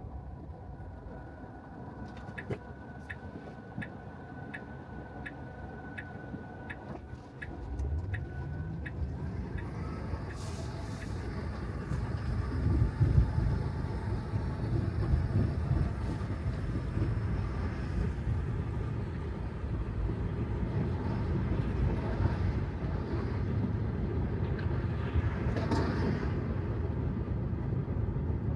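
Tesla Model 3, an electric car, rolling on a wet road: tyre and road noise without engine sound. It runs quieter at first with a light even ticking about twice a second, then grows to a louder low rumble about seven seconds in as the car picks up speed.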